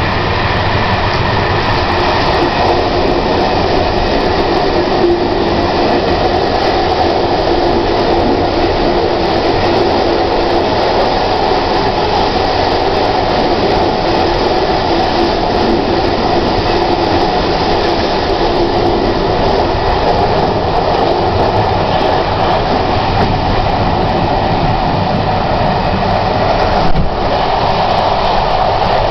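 Prague Metro train running at speed: a loud, steady rumble of wheels on rail with an even mechanical hum through it. One brief knock near the end.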